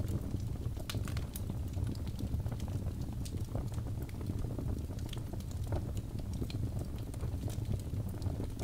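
Birch-log fire crackling: scattered sharp pops and snaps over a steady low rumble of the burning fire.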